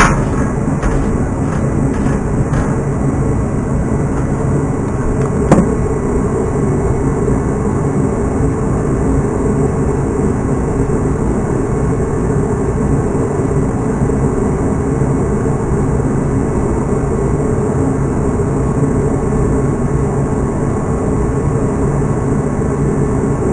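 A steady, low machine-like rumble runs throughout. It is broken by a few sharp clicks in the first three seconds and one louder click about five and a half seconds in.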